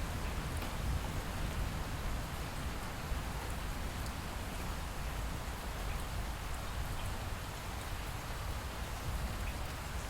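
Light rain falling steadily, with faint scattered drop ticks over a low, even rumble.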